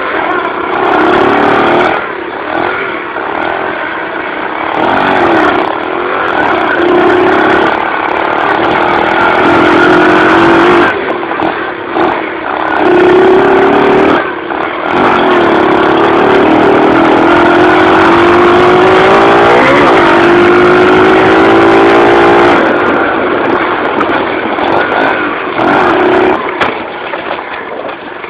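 Dirt bike engine revving under load, its pitch rising and falling with the throttle. Through the middle it holds one long, steady climb in pitch.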